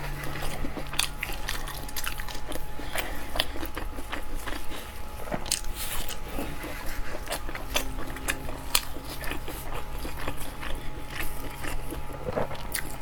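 Close-up eating sounds: a person biting and chewing food, with many short, sharp clicks and crackles at an irregular pace, over a faint steady hum.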